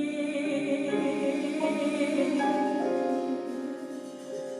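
Music: a held sung note with vibrato over sustained accompaniment notes that change pitch every second or so, easing off near the end.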